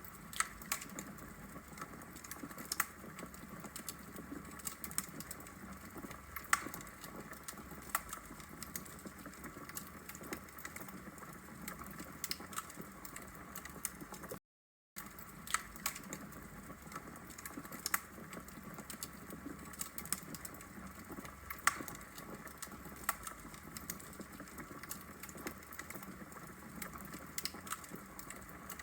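Wood logs burning in a fireplace, crackling with sharp, irregular pops over a steady low hiss. The sound cuts out completely for about half a second midway.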